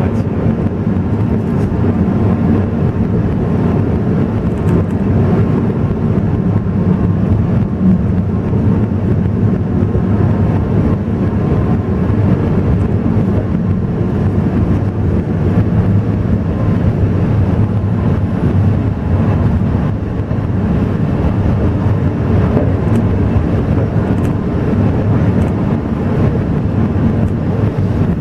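Alishan Forest Railway train running: a steady, loud low rumble of the moving train, with no breaks or changes.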